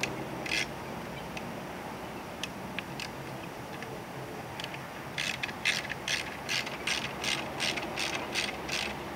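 Ratchet wrench clicking as a bolt is turned: a few scattered clicks, then a steady run of about three clicks a second from about five seconds in.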